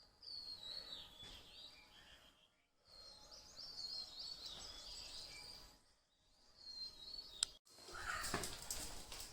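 Songbirds singing: quick, repeated high chirping phrases in two stretches, each broken off by a short gap. Near the end comes a single sharp click, then a louder rustling noise.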